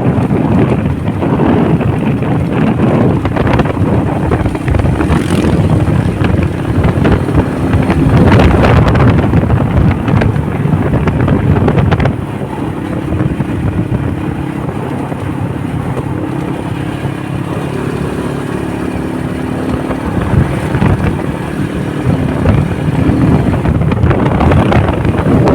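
Motorcycle running at road speed with wind buffeting the microphone. The wind noise is heaviest in the first half and eases about halfway through, leaving the engine's steady hum more audible.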